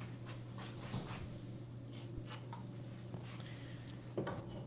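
Faint scattered clicks and rubs of bicycle headset parts, the stem and spacers, being handled, over a steady low hum.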